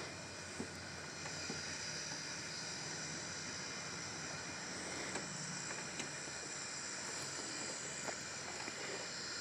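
Quiet steady background hiss with a thin high steady whine, and a few faint clicks here and there.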